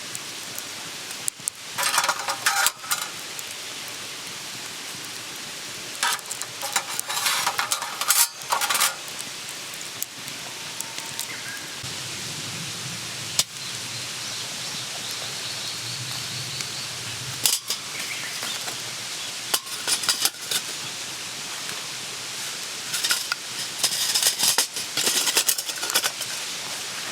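Spells of clattering and scraping from cooking utensils being handled, about five short spells, over a steady hiss.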